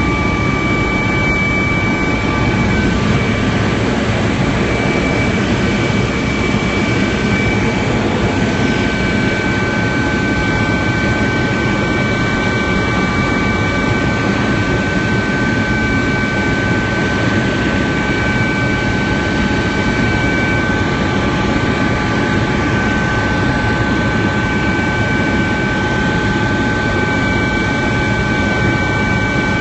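Helicopter running in flight, heard from inside the cabin: a steady loud drone with several constant high-pitched whines over it.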